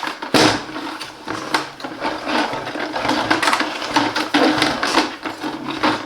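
Plastic body of a Bosch bagless vacuum cleaner being handled and turned over, with repeated knocks, clicks and rattles, the loudest knock about half a second in, over a steady low hum.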